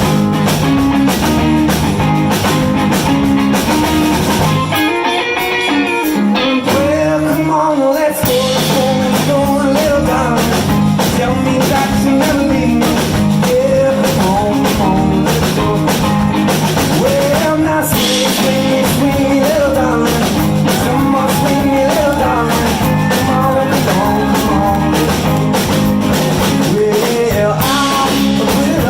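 Blues band playing live, with a sung vocal line. About five seconds in, the bass and drums drop out for roughly three seconds and then come back in.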